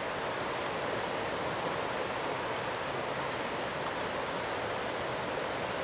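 Steady outdoor rushing noise, the kind made by wind and nearby lake water, with a few faint, short high chirps scattered through it.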